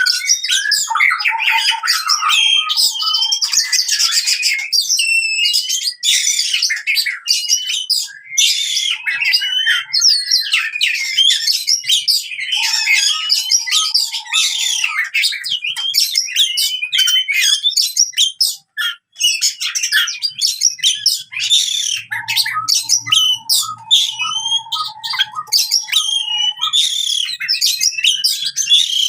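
Oriental magpie-robin in aggressive fighting song: a loud, unbroken stream of fast, varied whistles, chirps and harsh notes, broken now and then by runs of short repeated lower notes.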